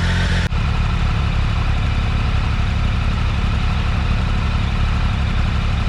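Motorcycle engine idling steadily as it warms up after a hard cold start, with an even low pulsing beat. Its level dips for a split second about half a second in.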